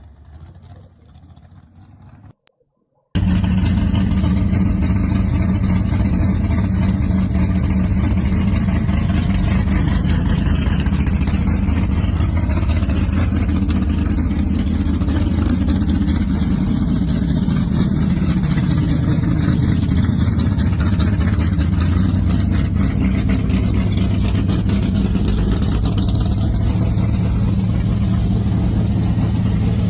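A classic muscle car's engine running loud and steady, its low pitch holding even. It comes in suddenly after a moment of silence about three seconds in; before that a fainter engine sound fades away.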